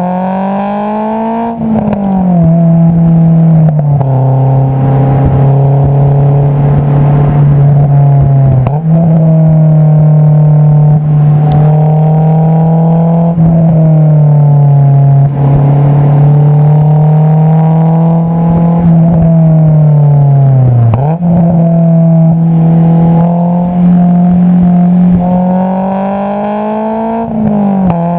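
Honda S2000's 2.2-litre four-cylinder engine heard through its Invidia Q300 aftermarket exhaust, pulling steadily under load while driving. The exhaust note climbs slowly in pitch through each gear, drops in steps at upshifts near the start, and jumps back up about a third of the way in and again about three quarters of the way in, as on a downshift.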